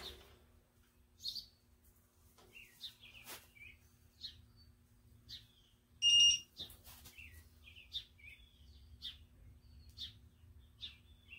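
Small birds chirping on and off, with one short, loud electronic beep about six seconds in over a faint steady hum, while a wrench is worked on engine cylinder-head bolts.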